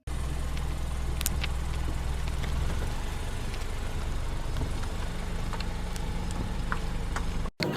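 An engine running with a steady low hum; its deepest part drops a little about three seconds in. A few faint clicks sound over it.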